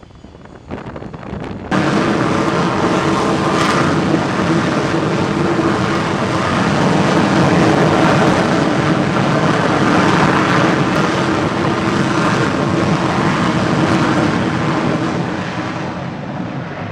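Jet aircraft engine noise, loud and sustained, starting suddenly about two seconds in and fading near the end.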